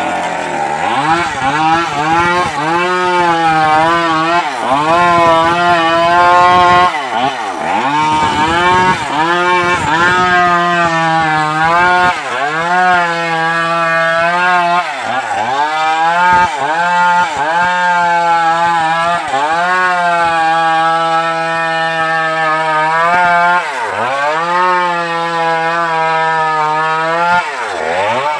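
Stihl MS381 two-stroke chainsaw running at high revs while cutting timber. Its engine note dips sharply and climbs back again every few seconds.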